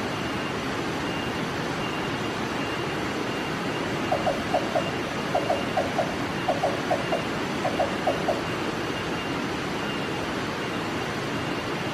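Black-banded barbet calling: four quick groups of three or four short, low notes, over a steady background hiss.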